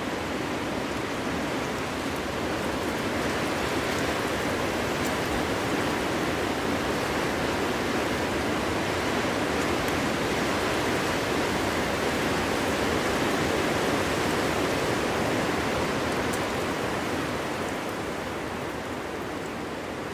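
Winter wind blowing through a forest, a steady rush that builds over the first few seconds and eases off near the end.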